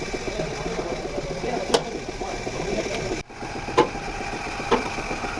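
An engine idling steadily with a fast even pulse, with a few sharp metallic clicks over it. The sound briefly drops out about three seconds in.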